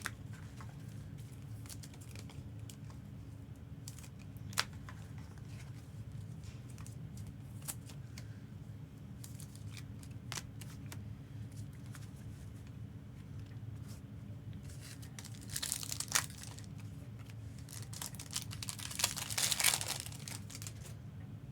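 Foil Pokémon booster pack wrapper being torn open and crinkled, in two louder bursts about 16 and 19 seconds in, with scattered small clicks between. A steady low hum runs underneath.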